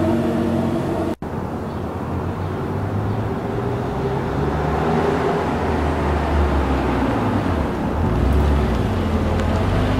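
1996 Porsche 993 Turbo's air-cooled twin-turbo flat-six running at a steady pitch, cut off abruptly about a second in. It is followed by the car on the move with a low, uneven rumble.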